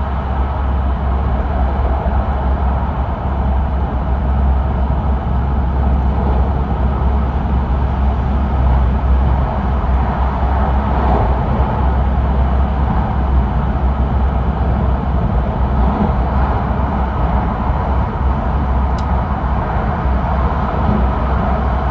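E5 series Shinkansen running steadily, heard from inside the passenger car: an even, loud rushing noise over a deep low rumble.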